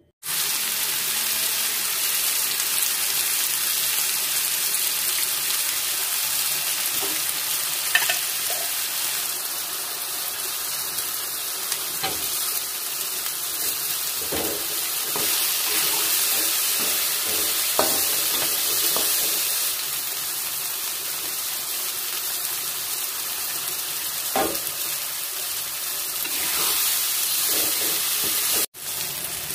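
Ground chili, shallot and garlic spice paste sizzling in hot oil in a metal wok, sautéed with lemongrass. The metal spatula scrapes and taps against the wok now and then as it is stirred. The sound breaks off for a moment near the end.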